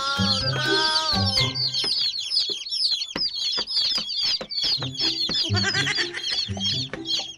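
A crowd of chicks peeping: many short, high, falling chirps overlapping, over background music with a bass beat that drops out for a few seconds in the middle.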